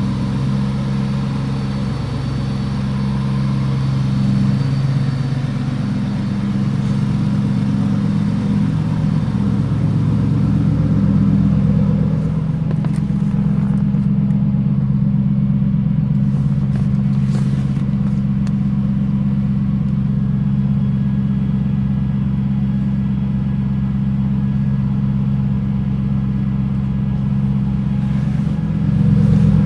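2022 Porsche Cayenne Turbo GT's 4.0-litre twin-turbo V8 running at a steady engine speed, its note stepping up slightly near the end.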